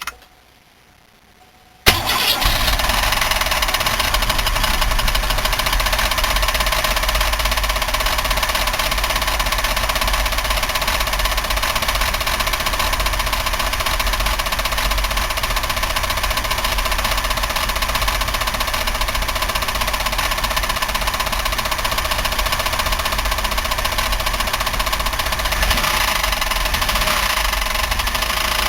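Buick 3800 V6 starting about two seconds in and then running steadily with a knocking racket, its front valve cover off. The owner suspects a spun bearing, a collapsed lifter or a rod knock.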